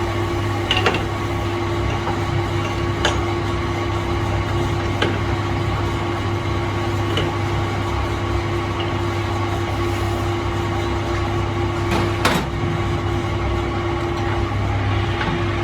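A workshop machine running with a steady hum, crossed by light knocks every couple of seconds and a sharper double knock about twelve seconds in.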